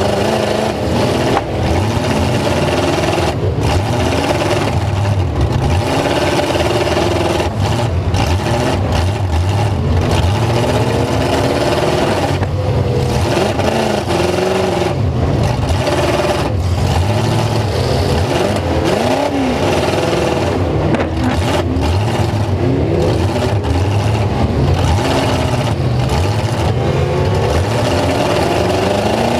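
Several full-size truck engines revving hard at once, loud and continuous. Their pitches rise and fall over one another above a steady low rumble.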